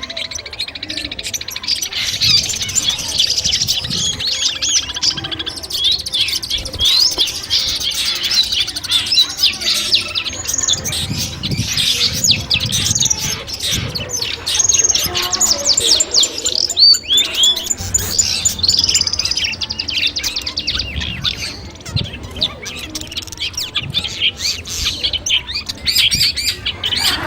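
Long-tailed shrike (cendet) singing a fast, varied stream of chirps, trills and rattling notes without pause.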